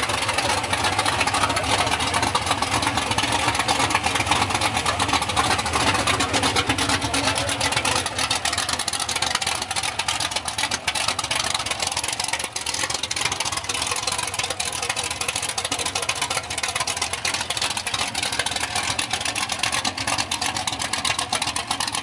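Chevrolet small-block V8 in a mud-racing pickup idling steadily, a 'rockin' small-block idle.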